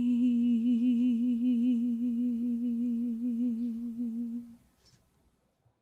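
One long vocal note held at a steady pitch from the song's a cappella ending, its vibrato widening as it goes, fading out about four and a half seconds in.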